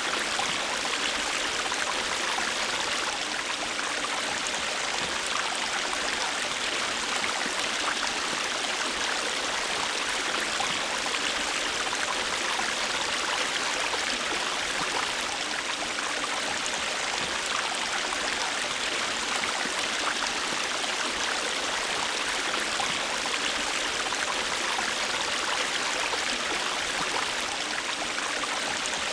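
River water rushing and splashing steadily over rocks, an even, constant rush with fine splashy detail.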